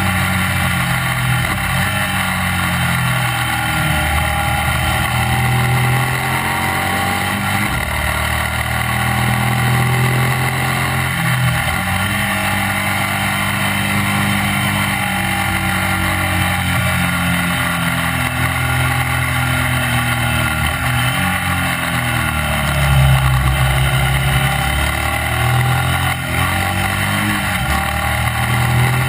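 Classic racing sidecar outfit's motorcycle engine at racing speed, its revs repeatedly rising and then dropping, over a steady rush of wind and road noise on the onboard microphone.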